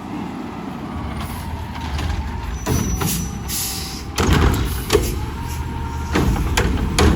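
Garbage truck engine running, with a burst of air hissing about three seconds in and sharp knocks and clanks from about four seconds on.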